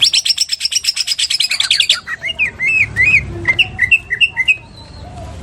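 Cucak ijo (green leafbird) singing. It opens with a fast, high, rattling trill in imitation of a lovebird's long 'ngekek' chatter, then breaks about two seconds in into a run of short slurred whistles.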